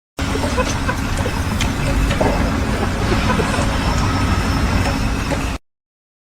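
A heavy engine running steadily with a low rumble, a few light clicks and knocks over it; it starts and stops abruptly.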